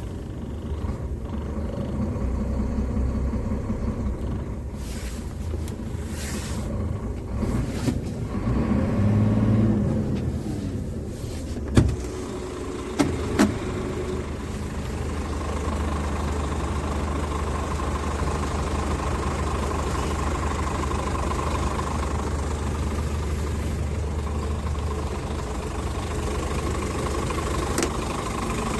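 Scania R440 truck's diesel engine running steadily at idle, with a brief swell in the engine sound about nine seconds in. Three short sharp clicks come close together around the middle.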